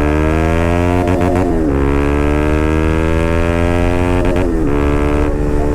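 Bajaj Pulsar RS200's single-cylinder engine and exhaust pulling hard under acceleration: the pitch climbs, dips twice as the rider shifts up a gear (about a second in and again past the middle), then climbs again.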